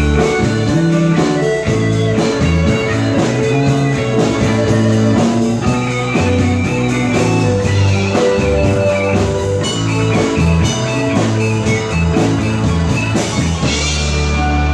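Live rock band playing an instrumental passage: guitar lines over bass and a drum kit keeping an even cymbal beat.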